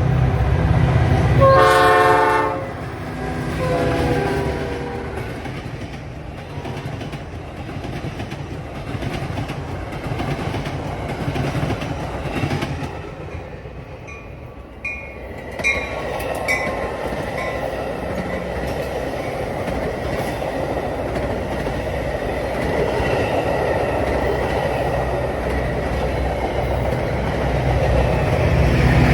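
Train horn sounding twice, a long blast and then a shorter one. The train then rumbles past, with a few sharp clicks from the wheels over the rail joints, and swells louder again near the end.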